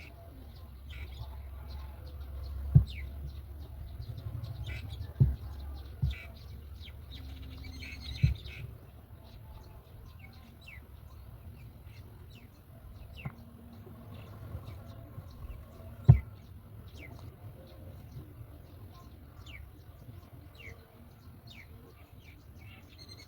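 Birds chirping: many short, high calls scattered throughout. A low rumble runs under the first third, and several sharp knocks stand out, the loudest near three seconds in and again about sixteen seconds in.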